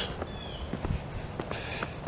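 Faint footsteps, a few light taps spread across the moment.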